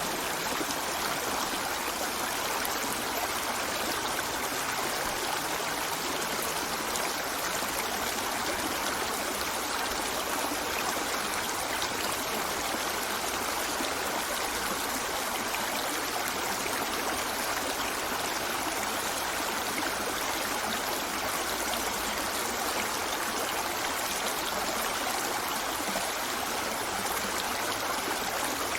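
River water flowing over rocks, a steady rushing and trickling with no breaks.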